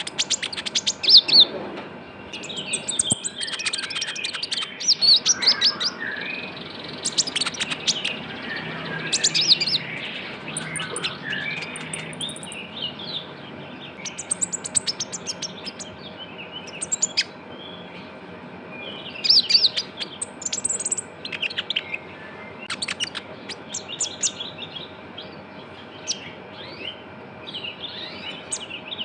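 Konin, the kolibri ninja sunbird, singing a fast chattering song: bursts of rapid high chirps and trills, one after another.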